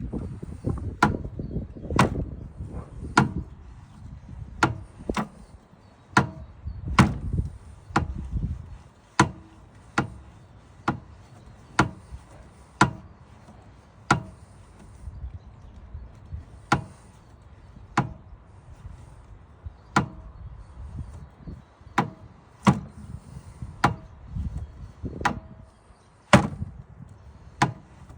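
Repeated sharp metallic knocks, roughly one a second, each with a short ring. Low rumbling handling noise runs under them for the first several seconds and briefly again near the end.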